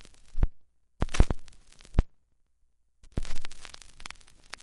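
Old-time radio static and crackle with sharp clicks, coming in three short spells broken by dead silences.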